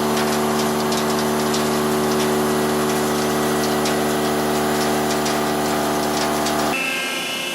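Heavy-duty 5-axis CNC mill running, a steady pitched hum with faint ticking over it, which cuts off abruptly near the end, leaving a fainter, higher tone.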